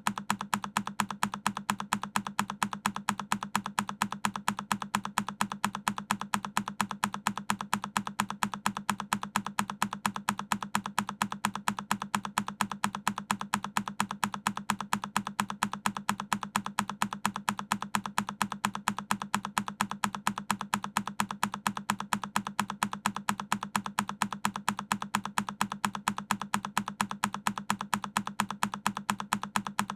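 A single key on a Keychron K10 mechanical keyboard pressed over and over in a loop: rapid, evenly spaced clicks at a steady level.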